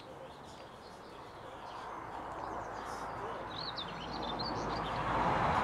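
A quick run of high, short bird chirps about three to four and a half seconds in, over a rushing background noise that swells louder near the end.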